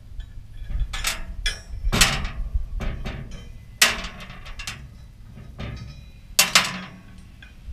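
Steel parts of a motorcycle hitch rack knocked and clanked together while being fitted: about six sharp, irregular metal knocks, the loudest about two, four and six and a half seconds in.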